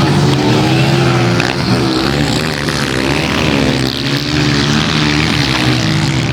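Several pit bike engines revving up and down together, their pitch rising and falling every second or so as the bikes race around the track.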